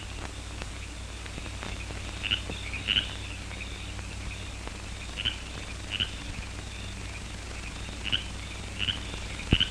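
Night-time outdoor chorus of short, high chirps coming singly or in pairs every second or two, over a steady low soundtrack hum. A single dull thump comes near the end.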